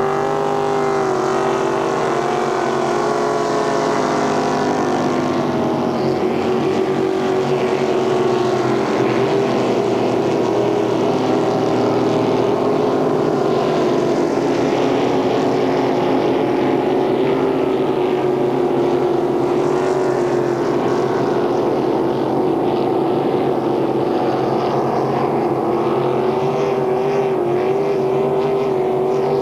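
Racing motorboat engine running at speed, its note holding a fairly steady pitch with slight wavers.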